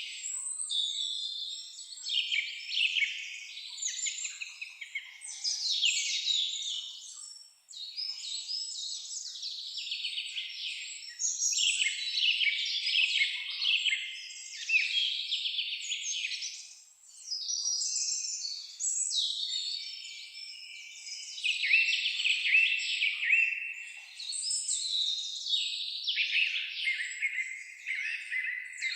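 Songbirds singing in a forest: a near-continuous run of rapid, high-pitched chirps and trills, with short breaks about 7.5 and 17 seconds in.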